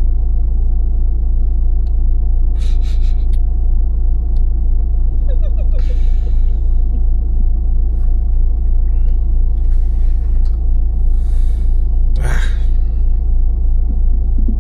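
Recovery truck's engine idling, a steady low rumble, with a few brief noises over it.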